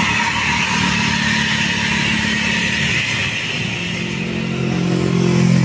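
Large diesel vehicles, buses and a light truck, pulling up a steep hill under load. A deeper engine note grows louder about four seconds in.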